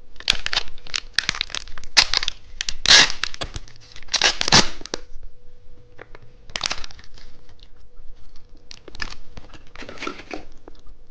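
Plastic candy wrapper being torn open and crinkled by hand in a run of irregular crackles, the loudest about three and four and a half seconds in.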